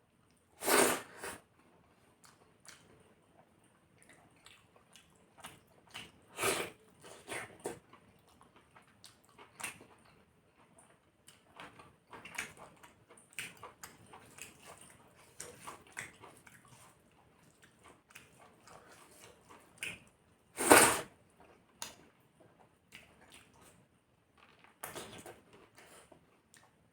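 Close-up eating sounds of a person eating spicy green chicken curry with rice: scattered small chewing and mouth noises, broken by four louder short smacks.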